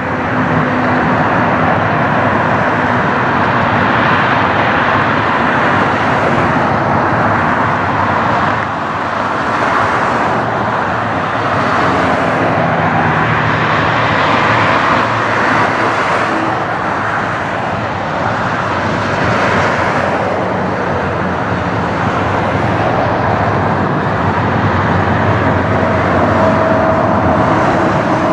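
Airbus A321-231 airliner's IAE V2500 turbofan jet engines, a loud steady rushing noise that swells and eases slightly over the seconds.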